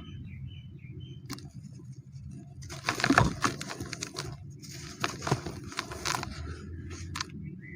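Dry, dusty cement being crumbled, crunching in two longer bursts with a few single sharp crackles between them.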